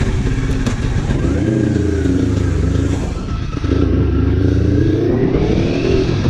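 Kawasaki Ninja 400's parallel-twin engine through an aftermarket exhaust, pulling away under acceleration: the engine note rises, drops briefly at a gear change about three and a half seconds in, then climbs again, louder.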